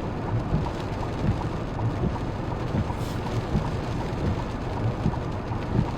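Steady rushing noise of floodwater running over a paved road, with a low, uneven rumble underneath.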